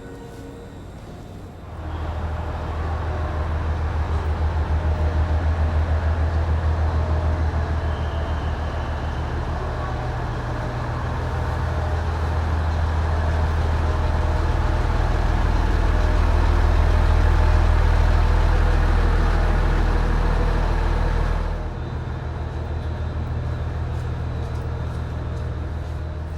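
Low, steady engine drone of a large vehicle running under load. It starts abruptly about two seconds in, swells, and drops off sharply a few seconds before the end.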